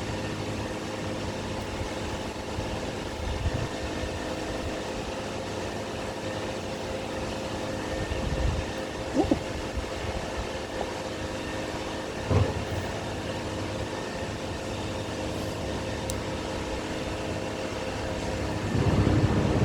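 A steady mechanical drone holding several fixed tones, with a few brief soft knocks.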